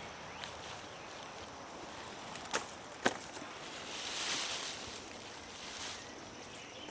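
Gloved hands digging through soil in a potato bed, with rustling and scraping, and two sharp clicks about half a second apart a little before the middle.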